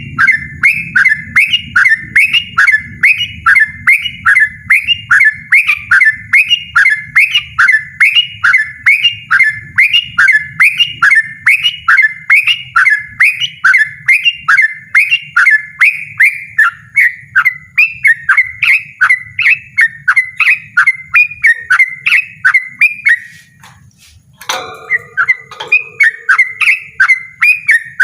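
Yellow-vented bulbul (trucukan) singing a fast, insistent run of repeated downslurred notes, a little over two a second. The run breaks off briefly near the end for a single rougher call, then carries on.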